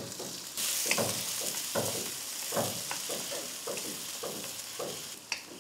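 Chopped spring onion greens, ginger and garlic sizzling in hot oil in a wok, with a wooden spatula stirring and knocking against the pan in repeated strokes. The sizzle starts about half a second in and dies away near the end.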